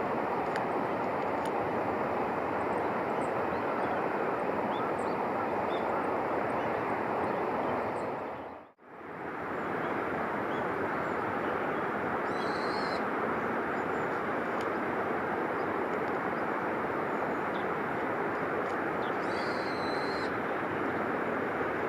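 Steady rushing noise, cut off by a brief drop-out about nine seconds in, with two short high-pitched calls, one about twelve seconds in and one near the end.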